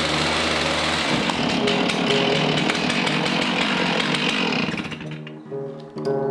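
Chainsaw running at full throttle and cutting through the rotted end of a black walnut log, stopping about five seconds in.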